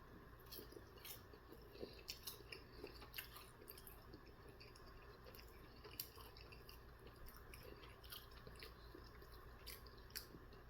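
Faint chewing: soft, irregular mouth clicks and smacks of someone eating food.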